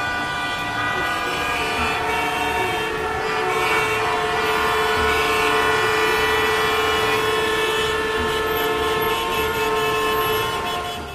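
Several vehicle horns honking at once in long, overlapping blasts, the din of a traffic jam, which stops abruptly near the end.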